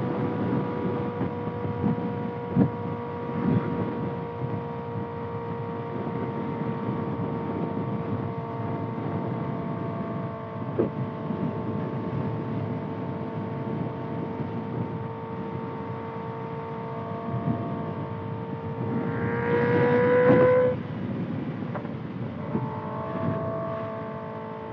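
2025 Kawasaki ZX-6R's inline-four with a Voodoo slip-on exhaust, running steadily under way with a rough rushing noise beneath it. About nineteen seconds in the pitch rises and grows louder for a second or two, then cuts off sharply. It settles again at a different pitch.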